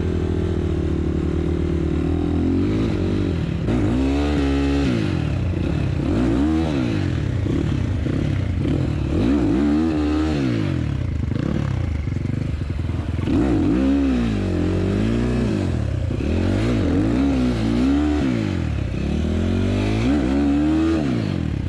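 Enduro motorcycle engine being ridden, revving up and falling back over and over, its pitch rising and dropping every second or two.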